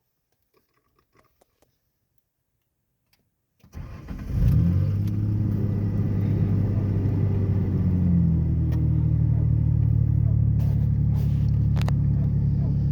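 2003 Ford Ranger's 4.0-litre V6, muffler deleted with the catalytic converters still on, cold-started about four seconds in after near silence. It catches, flares briefly, then settles into a steady idle.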